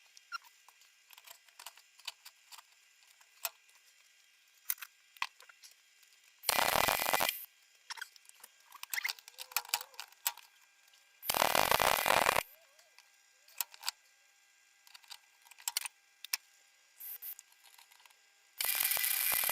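MIG welder laying three short tack welds on steel bar, each a crackling burst of about a second, with small clicks and clinks of metal between them.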